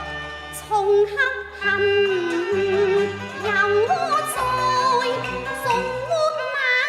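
Cantonese opera aria: a high-pitched voice sings a drawn-out, bending melody over the accompaniment of the opera band, the singing entering about a second in.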